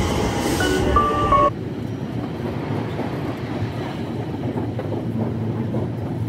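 Electric commuter train at a station platform, with a few held tones over it. About a second and a half in it cuts suddenly to the steady, duller rumble of riding inside the moving train's carriage.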